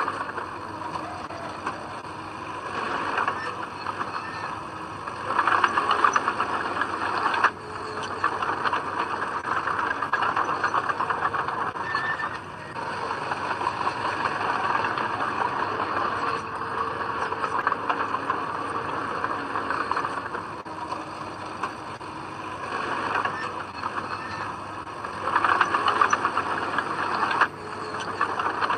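Komatsu D20P crawler bulldozer working: engine running with the steady squeal and clatter of its tracks. The noise rises twice for about two seconds, about five seconds in and again near the end, and each time drops back suddenly.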